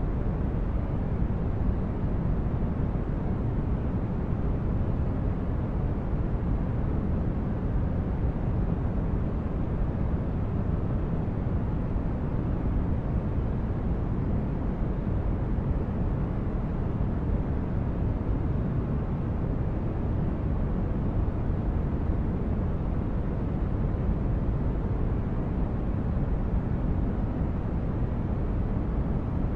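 Steady white noise for sleep and relaxation, deep and weighted toward the low end, unchanging and with no other events in it.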